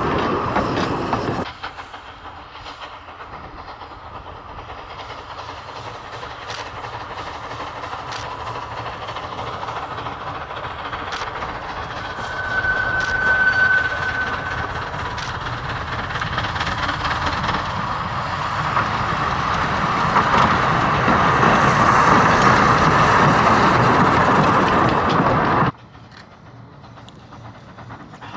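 Groudle Glen Railway's narrow-gauge train running along the line, with wheels clicking over the rails and the sound growing steadily louder as it comes closer. There is a short steady high tone about halfway through. The sound changes abruptly about a second in and cuts off suddenly near the end.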